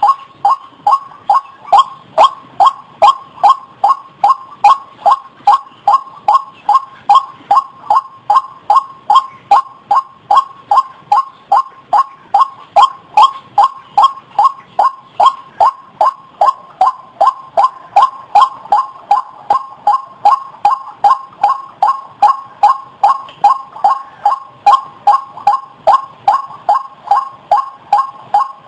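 White-breasted waterhen (ruak-ruak) calling: a long, unbroken run of short pitched notes repeated evenly, about two and a half a second.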